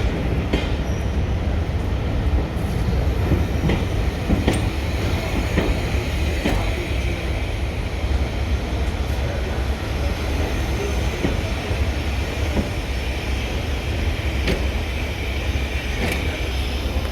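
Diesel-hauled train running along the line: a steady low rumble with scattered sharp clicks of the wheels over rail joints.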